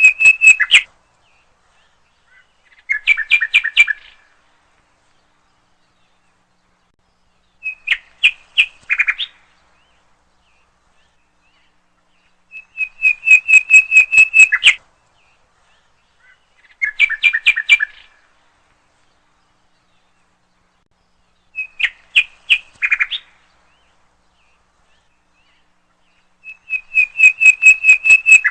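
A bird calling in short phrases of rapid, evenly spaced notes, about seven phrases each a second or two long with pauses of a few seconds between them. Three phrase types recur in the same order.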